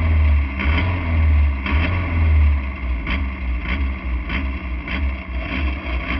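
Pulling tractor's diesel engine running, with a heavy deep rumble that eases about two and a half seconds in.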